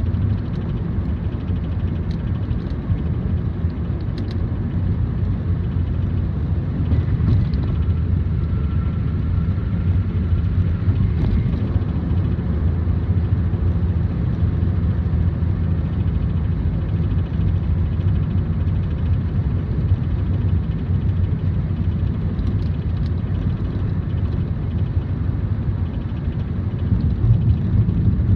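2007 Toyota Prius making a steady low droning hum, the unexplained noise the car is making, with a faint thin whine for a few seconds about a third of the way in.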